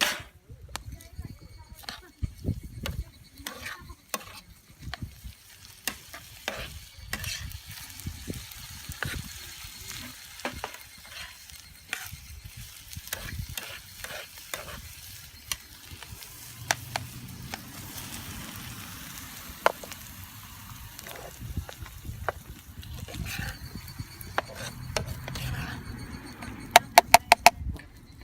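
Food sizzling in a frying pan over a wood fire, with a utensil stirring and knocking against the pan in scattered clicks. Near the end comes a quick run of about six sharp clicks.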